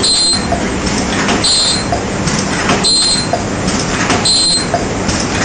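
Cup-making machine running, its working cycle repeating about every second and a half, each stroke bringing a short hiss and a click over a steady mechanical din.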